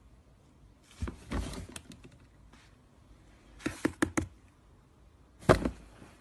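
Scattered knocks and taps in three short clusters: one about a second in, a quick run of sharp taps around four seconds in, and another near the end.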